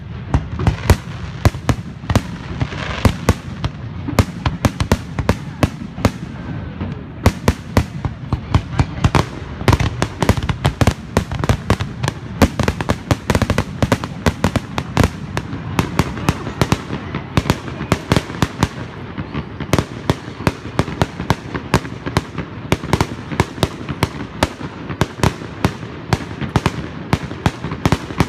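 Aerial fireworks going off in a rapid, unbroken string of sharp bangs and cracks, several a second.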